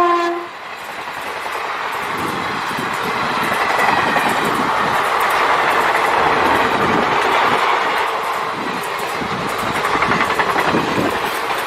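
Express train coaches passing at speed: a steady rushing roar, with wheels clattering over the rail joints. The tail of the WAP-4 electric locomotive's horn cuts off about half a second in.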